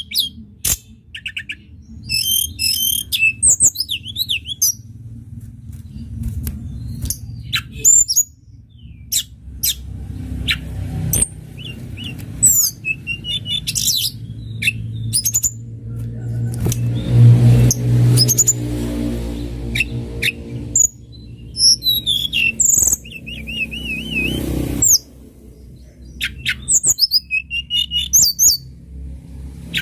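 Tledekan gunung singing: a string of quick, high, varied chirps, trills and sharp whistles, broken by short pauses. Under the song a low hum swells and fades about halfway through.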